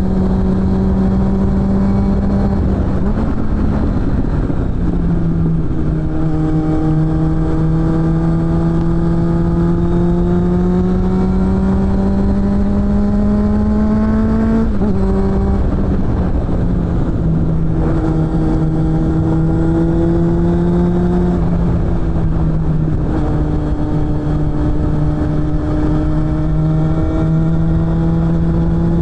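Suzuki GSF600 Bandit's inline-four engine through a BOS aftermarket exhaust, running under way. The engine note climbs slowly in pitch through a long pull, changes abruptly about fifteen seconds in, holds steadier for a few seconds, then climbs gently again.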